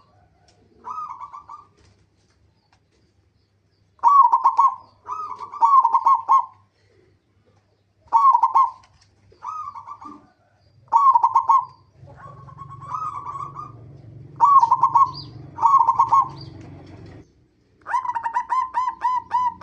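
Zebra dove (perkutut) cooing: a series of short, bubbly coo phrases separated by pauses, ending in a quick run of rapid, evenly spaced notes. A low background rumble runs under the calls in the second half.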